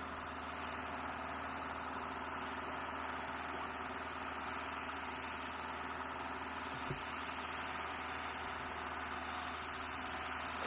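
Dirt bike engine idling steadily, with a single light knock about seven seconds in.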